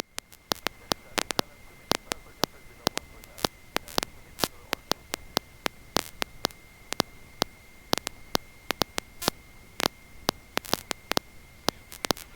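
Crackling static on an aircraft intercom audio line: sharp, irregular clicks, several a second, over a faint steady high whine, with the engine noise shut out.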